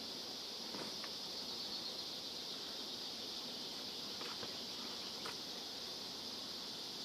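Steady chorus of insects, an unbroken high buzz, with a few faint taps scattered through it.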